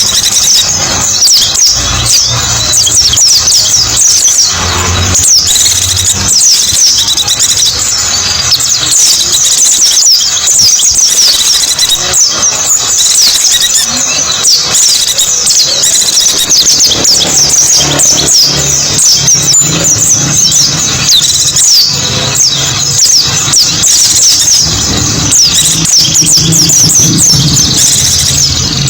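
A flock of white-eyes (pleci) twittering continuously: many quick, high, overlapping chirps and trills with no pause.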